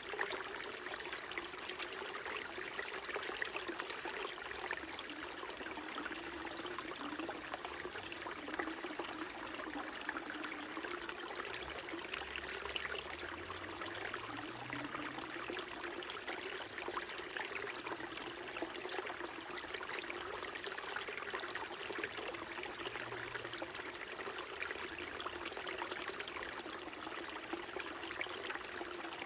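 Small mountain stream running steadily, water trickling and babbling over stones.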